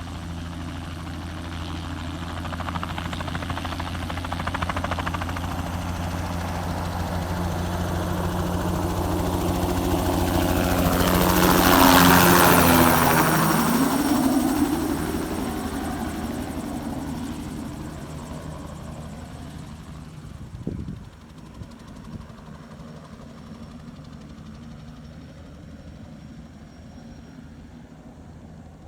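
Crop-spraying helicopter flying past: the rotor and engine sound grows louder, is loudest about twelve seconds in, drops in pitch as it passes, and fades away. A short knock is heard about two-thirds of the way through.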